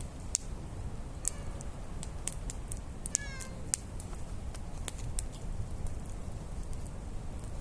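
Wood campfire crackling, with frequent sharp pops over a steady low rumble. About a second in, and again around three seconds in, comes a brief high pitched squeal.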